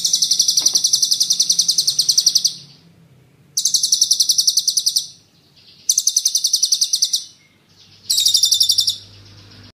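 A songbird giving rapid, high-pitched rattling trills, the 'tembakan' bursts prized in Indonesian songbird training recordings, in four bursts: one long one at the start and three shorter ones after gaps of about a second.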